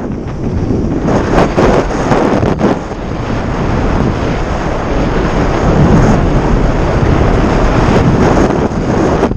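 Heavy wind buffeting the microphone: a loud, continuous rushing and flutter of air with no clear tone.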